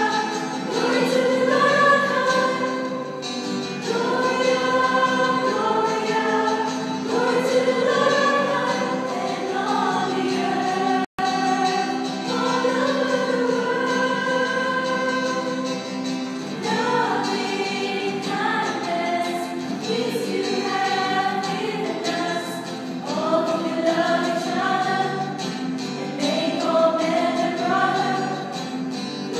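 A choir singing in phrases of a few seconds each over a steady held note. The sound cuts out for an instant about 11 seconds in.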